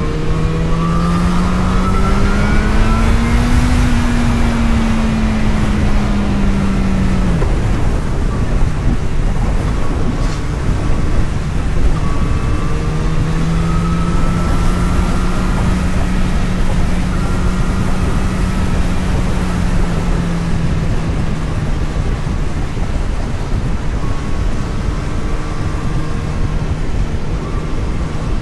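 Vehicle engine and road rush heard from the driver's seat. The engine note rises for the first few seconds, then eases and falls away about seven seconds in. It picks up again around twelve seconds and holds steady at a cruise, over constant wind and tyre noise.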